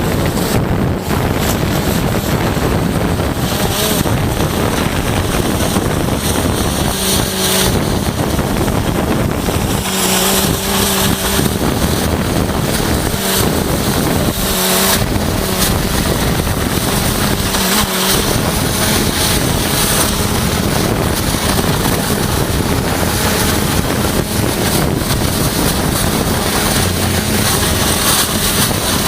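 Hydrodemolition robot's high-pressure water jet blasting concrete: a loud, continuous hissing rush, with a steady low machine hum underneath.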